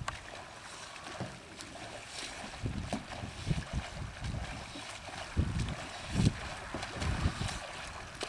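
Canoe paddle strokes splashing in lake water, with irregular wind gusts buffeting the microphone.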